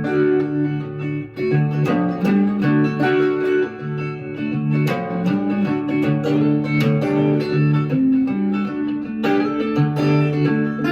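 Instrumental blues with guitar: plucked notes over sustained low notes, no singing.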